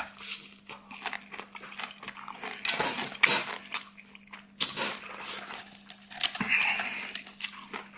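A person slurping and chewing noodles, with two louder slurps a few seconds in and small chopstick and bowl clicks between them, over a steady low electrical hum.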